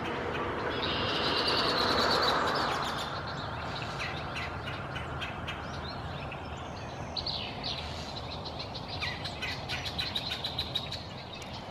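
Wild songbirds chirping and calling, with many short, high notes scattered throughout and more of them near the end. A soft rushing noise swells about two seconds in and then fades.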